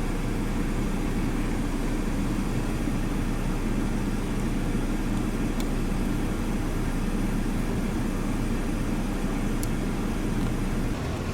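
A steady, low mechanical drone, like a motor or engine running continuously.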